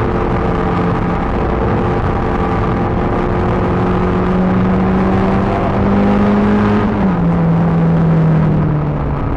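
Peugeot 306 GTi-6's 2.0-litre four-cylinder engine running hard on track, its pitch climbing slowly for about seven seconds. Then the pitch drops suddenly and keeps falling as the car slows, with steady road and wind noise throughout.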